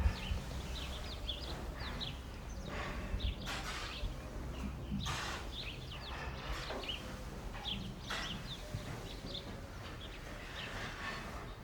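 Outdoor rural ambience: small birds chirping again and again over a low steady rumble, with a few brief rustling noises.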